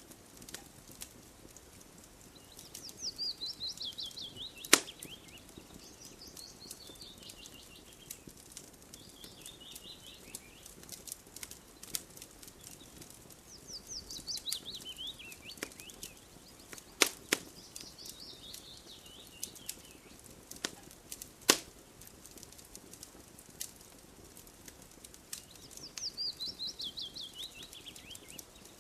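Campfire crackling, with a faint hiss and scattered sharp pops, a few of them loud. A songbird sings over it, repeating a fast trilled phrase that falls in pitch and lasts two to three seconds, about half a dozen times.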